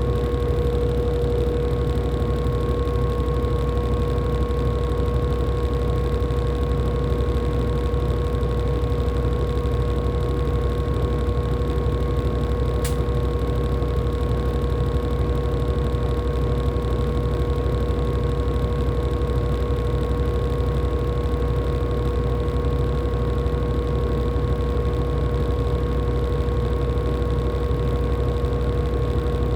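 LG top-loading washing machine running steadily, most likely in its final spin: a constant motor whine over a low rumble of the drum, with no change in speed.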